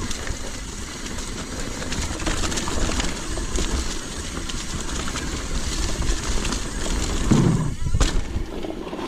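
Mountain bike descending a rooty dirt trail: tyres rumbling and the bike rattling over roots and loose ground, with a sharp knock about eight seconds in.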